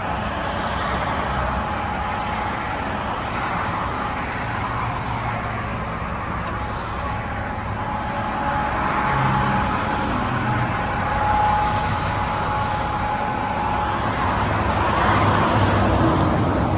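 Caterpillar 962G wheel loader's diesel engine running, with a steady whine above the engine rumble; it grows a little louder several times in the second half.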